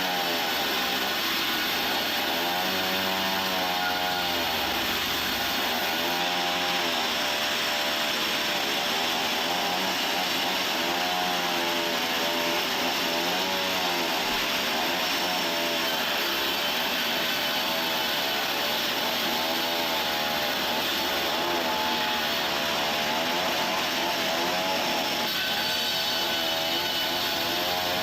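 Sawmill machinery running continuously, a steady mechanical drone with a pitch that wavers up and down.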